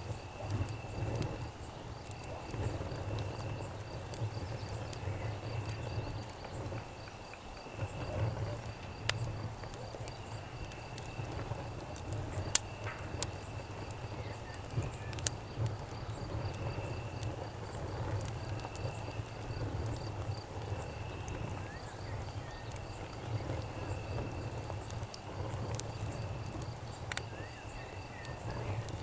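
Campfire crackling with a few sharp pops, the loudest about twelve seconds in, over night insects chirping in repeated trills of about a second each. A low steady rumble sits underneath.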